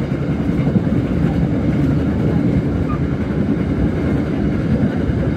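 Bengawan passenger train running at speed, heard from on board as a steady, even noise that sits low.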